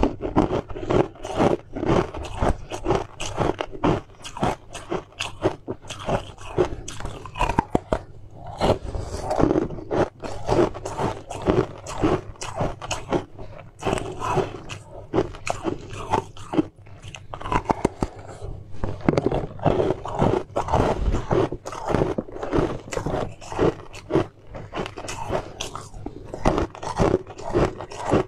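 Crunching bites and chewing of a hard, frosty frozen treat, with sharp crunches coming in quick, uneven succession throughout.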